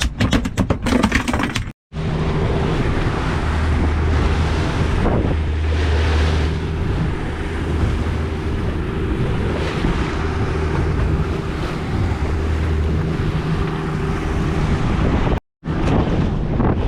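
Boat motor running steadily under way, a low even hum with wind buffeting the microphone and water rushing past the hull. A few knocks and clicks in the first second or two, and the sound drops out completely twice, briefly, near the start and near the end.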